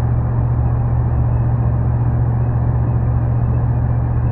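Ram 1500's 5.7L HEMI V8 with a resonator delete and aftermarket muffler, cruising at steady freeway speed: a steady low exhaust drone heard inside the cab, over the hiss of tyres on wet pavement.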